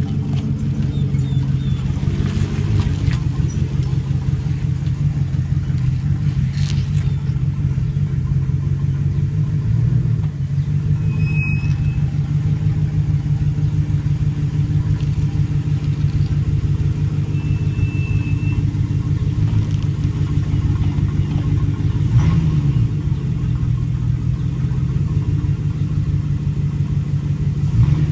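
Ford Raptor pickup's exhaust, stock system with the resonator removed, idling with a steady deep rumble, with a short blip of the throttle about two-thirds of the way through.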